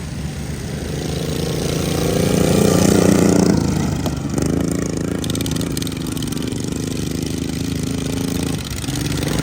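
Racing lawn mower engines running hard; one gets louder and rises in pitch, then drops in pitch as it passes about four seconds in, and the engines carry on steadily after.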